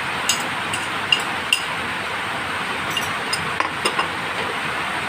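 A metal spoon clinking repeatedly against a dish, stirring to dissolve curry powder, each tap with a short bright ring, over a steady hiss.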